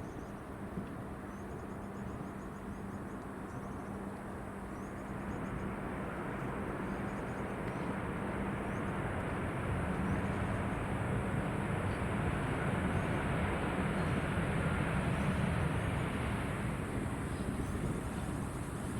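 Jet airliner engines passing: a broad rumble that builds from about a fifth of the way in, is loudest in the second half and eases near the end.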